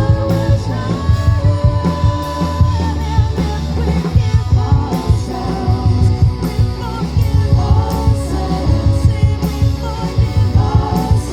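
Live rock band playing: a sung melody over guitar, a heavy bass and a drum kit keeping a steady beat.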